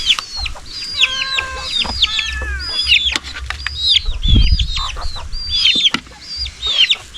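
Domestic chickens calling, many short high calls repeated one after another, with a low rumble around four seconds in.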